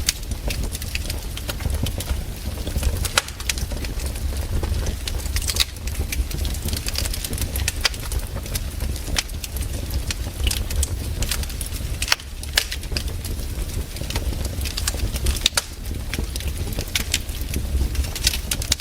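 Wood campfire crackling, with irregular sharp pops and snaps over a low rumble of the burning fire.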